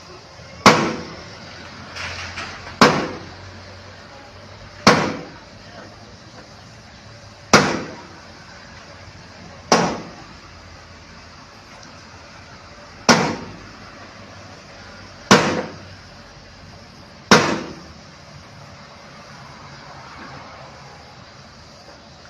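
Sharp, heavy knocks on a wooden packing crate as it is knocked open: eight single blows, two to three seconds apart, each ringing briefly.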